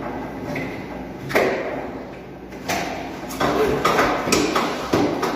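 Fridge drawers and shelves knocking and sliding as they are handled during cleaning: a run of clatters and knocks, closer together in the second half.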